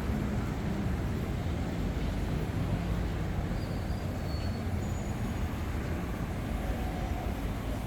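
Steady low rumble of vehicle traffic in a city street, with no clear single event.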